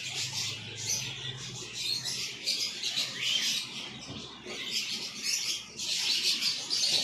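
A crowd of small caged birds chirping and twittering all at once, a dense, continuous chatter of high calls.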